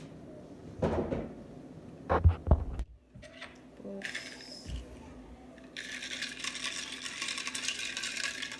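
Drink mixing: a few hard knocks and clicks from a plastic container, then from about six seconds in a steady rattling shake, as when a shaker bottle is shaken to mix powder.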